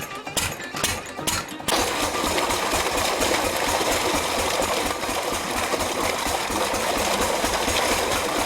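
Background music with plucked notes, then, under two seconds in, a motorised machine cuts in and runs steadily with a fast, even chatter.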